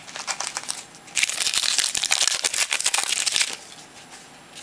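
Football trading cards and their packaging being handled: a few light card flicks, then about two seconds of dense rustling and crinkling starting about a second in.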